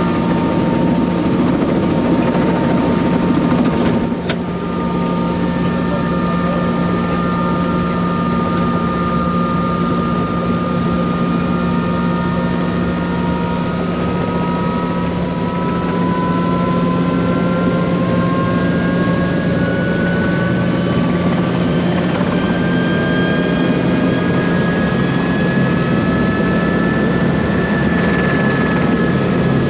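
Helicopter running: a steady low drone from the engine and rotor with higher whining tones that climb slowly in pitch through the second half. A short click and a brief dip in loudness about four seconds in.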